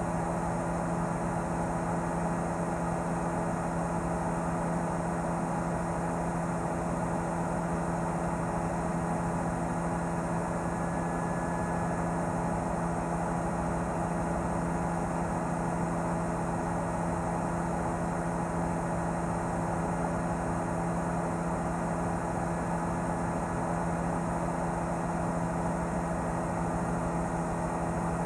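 Helicopter engine and rotor drone heard from on board: a steady hum with several fixed tones that never change in pitch or loudness.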